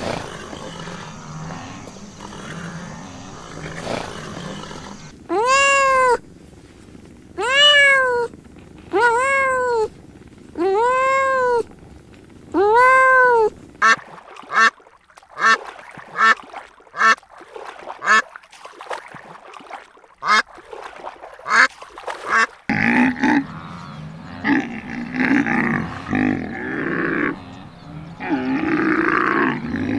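A run of animal calls. First come five separate drawn-out calls about a second each, rising then falling in pitch. Then there is a fast string of short quacks from white domestic ducks, and harsher, rougher animal calls near the end.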